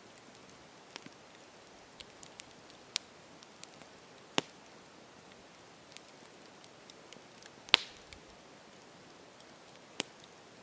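Campfire crackling: irregular sharp pops and snaps over a faint steady hiss, the loudest pop about three quarters of the way through.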